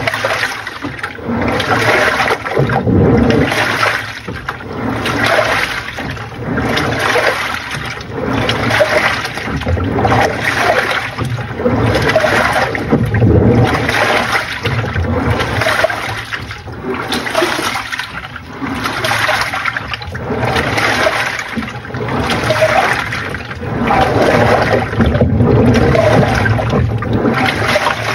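Panasonic NA-FA80H8 top-loading washing machine washing: water churning and sloshing in the tub, swelling and fading in even surges about once a second.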